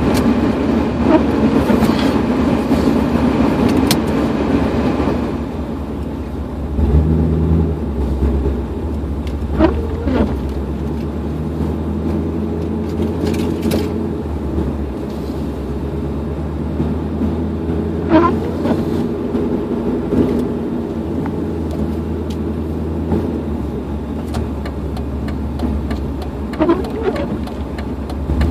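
A 1998 Dodge Dakota pickup's engine running, heard from inside the cab. A broad rushing noise fills the first five seconds or so, then gives way to a steady low hum, with a few faint short squeaks at long, even gaps.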